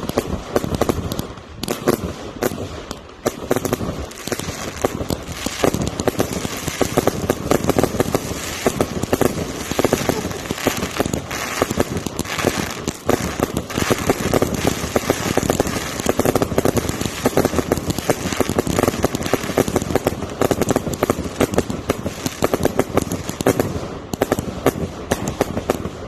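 Fireworks finale barrage: a dense, continuous run of rapid bangs and crackles, many per second, with no let-up.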